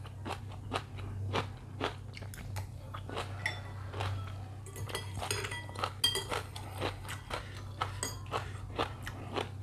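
Close-up chewing and biting with irregular crunches, eating chicken noodles and their toppings, with a few light clinks of cutlery on the bowl about halfway through.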